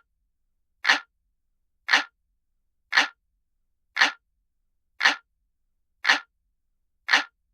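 Analog clock ticking sound effect, looped: single, identical ticks about once a second, with silence between them.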